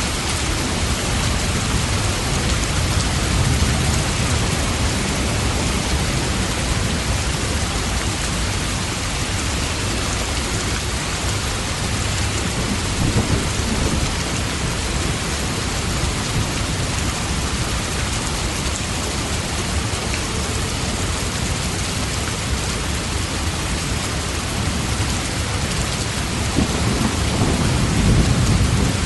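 Steady rain, with low rolls of distant thunder swelling up a few seconds in, around halfway and again near the end.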